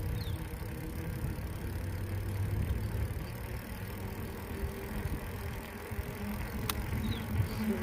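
Bicycle ride on a city street: a steady low rumble of wind on the microphone and tyres on the road, with faint traffic hum and one sharp click about seven seconds in.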